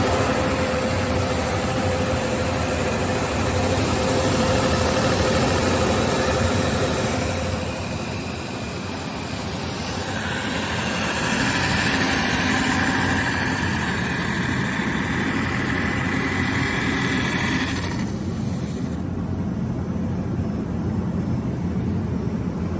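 Six-roll wood sanding machine running, its abrasive rolls sanding wood with a steady hiss over the motor hum. A higher whine joins partway through. Then, about three-quarters of the way in, the high hiss drops away, leaving the machine running on.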